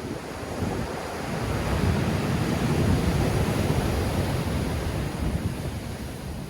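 Black Sea waves breaking and washing on the shore in strong wind, one swell building about a second in and easing off near the end, with wind buffeting the microphone.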